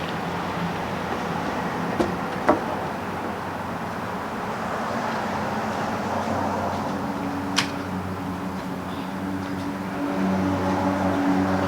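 Steady machine-like noise with a few sharp knocks. About six seconds in, a low droning hum comes in, and it grows louder near the end.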